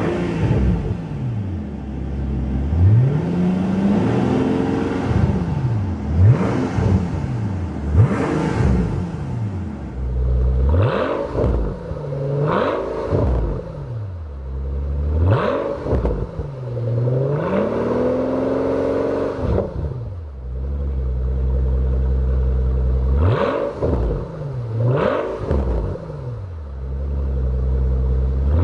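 The 6.0-litre twin-turbo V12 of a 2012 Mercedes-Benz S65 AMG revved repeatedly in place, each rev rising and falling back toward idle, capped at about 3,000 rpm by its standstill rev limiter. Quick blips come every second or two, then a few longer revs in the middle, a short steady idle, and more blips near the end.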